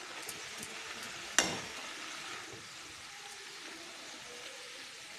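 Freshly grated carrots sizzling in hot ghee in a steel pan as they are stirred with a metal spoon, with one sharp knock about a second and a half in.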